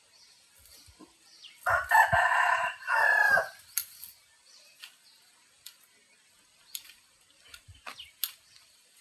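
A rooster crowing once, a loud call of about two seconds that starts just under two seconds in, followed by scattered light clicks and knocks.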